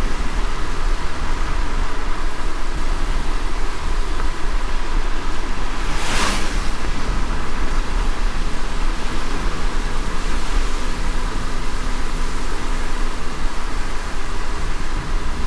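Light rain and road noise heard inside a moving car: a steady low rumble under an even hiss. There is a brief, louder hiss about six seconds in.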